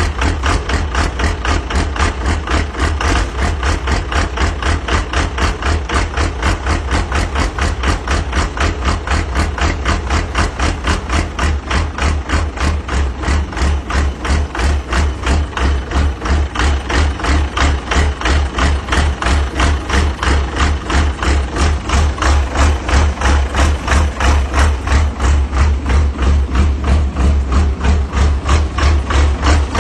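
Car engine idling after a cold start, its exhaust pulsing in a loud, even, rhythmic lope. The pulses grow somewhat louder in the second half.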